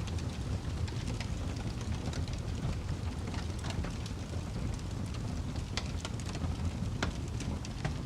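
A fire crackling: scattered sharp snaps and pops over a steady low rumble.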